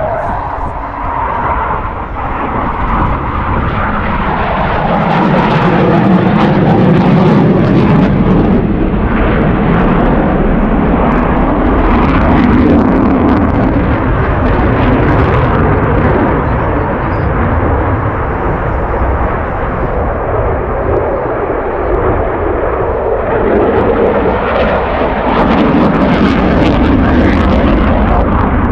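Eurofighter Typhoon jet engine roar during a display pass, swelling as the jet comes close, easing off, then swelling again near the end.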